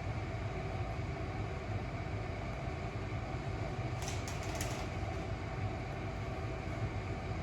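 Steady low hum and hiss of background machine noise, like a fan or air conditioner running, with a few faint clicks about four seconds in.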